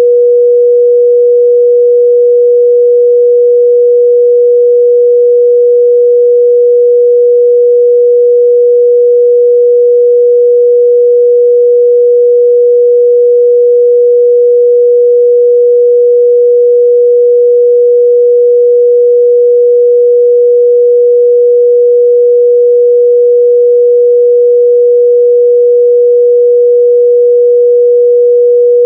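A steady, loud 484 Hz sine-wave test tone, one pure unbroken pitch.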